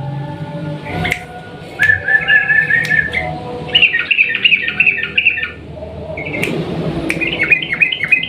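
Yellow-vented bulbul (trucukan) singing its long rolling song in three quick phrases of rapid, chattering notes, over a steady low hum.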